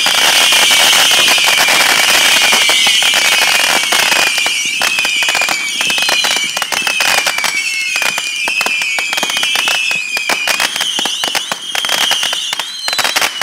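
Fireworks going off in a dense, rapid crackle of pops, with a shrill whistling tone over it that repeatedly drops a little in pitch. The crackle thins out slightly after a few seconds.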